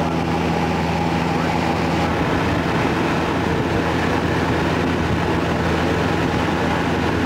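Small propeller airplane's engine running steadily, a constant even drone.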